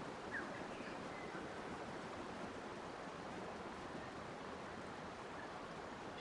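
Steady rushing of water, an even hiss without a beat, with a few faint, brief bird chirps near the start.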